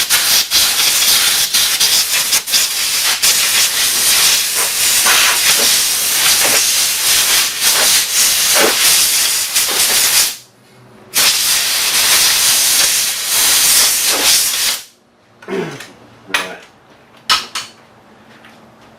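Compressed-air blow gun blasting dirt and rust out of a jackshaft keyway: a long hiss of about ten seconds, a brief stop, then a second blast of a few seconds. A few light metal clinks follow near the end.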